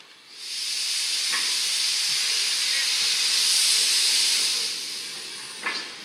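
A long, loud hiss of gas venting under pressure. It builds in about half a second, holds for about four seconds, then fades, and a single sharp knock follows near the end.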